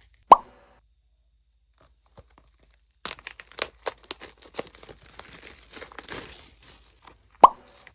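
Plastic packaging crinkling and tearing as it is opened, in a dense stretch through the middle, with a sharp click just after the start and another near the end.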